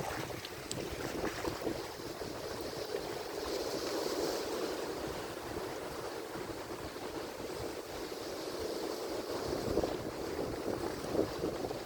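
Atlantic Ocean surf: waves breaking and washing on the shore in a continuous, gently swelling rush.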